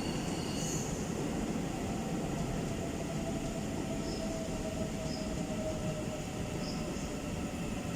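Taiwan Railway EMU900 electric commuter train rolling into a station: a steady rumble of wheels on rail, with a faint whine that drifts slightly lower in pitch as it slows.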